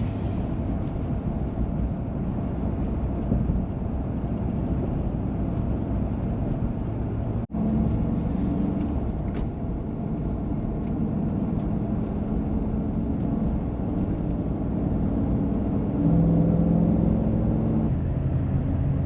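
Pickup truck under way: steady engine and road noise, with a momentary drop-out about seven and a half seconds in.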